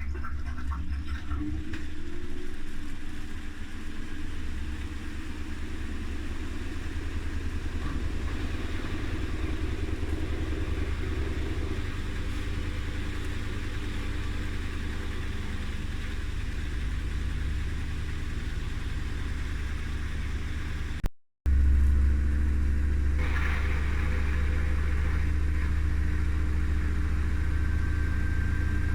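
Haier I-Pro Series 7 front-loading washing machine in its spin phase: the drum and motor start up and run with a steady low hum. After a brief dropout about two-thirds of the way through, the hum comes back louder, and near the end a faint motor whine starts to rise as the drum picks up speed.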